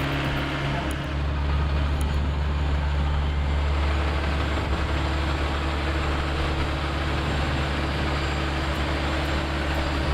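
Heavy truck engine running steadily with a low hum, a little louder from about a second in.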